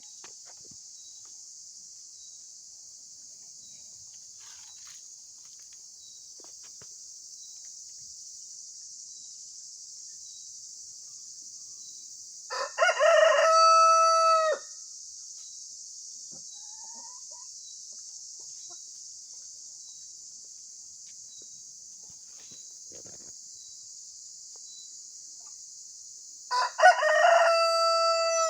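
A rooster crowing twice, each crow about two seconds long, some fourteen seconds apart, over a steady high-pitched hiss.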